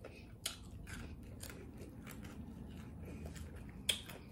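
Chewing on a piece of fried pork chop, its crisp breading crunching in a run of short, sharp crackles, with a louder click near the end.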